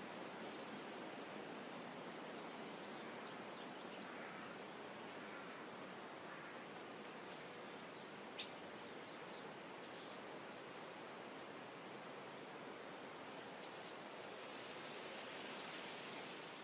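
Steady hiss of calm, gently rippling water, with many short, high bird chirps and whistles scattered through it, a few sharper ones standing out.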